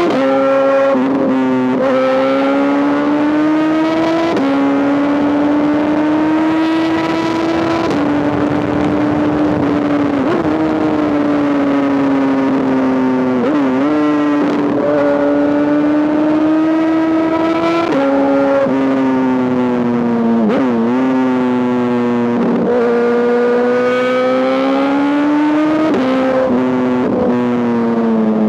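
2005 Honda CBR1000RR's inline-four engine running loud at high revs through an SC-Project exhaust. Its pitch holds fairly steady, then every few seconds it briefly dips and climbs back.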